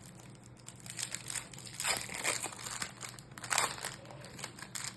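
Crinkly wrapper of a trading-card pack being handled and opened, in irregular rustling crackles with two louder bursts about two seconds and three and a half seconds in.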